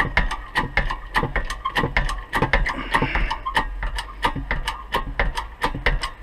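Ratchet wrench clicking steadily, about four or five clicks a second, as it winds a bearing press to push a new wheel bearing into the hub.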